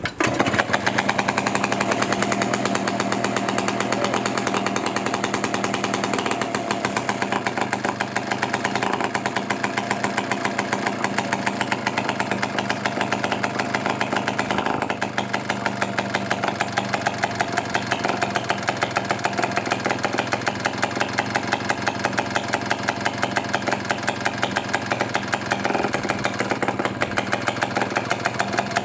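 Villiers 150cc two-stroke engine of a vintage Teles Smith two-man chainsaw catching on the first pull right at the start and then running steadily with an even firing beat. It is the engine's first run after more than 30 years unused.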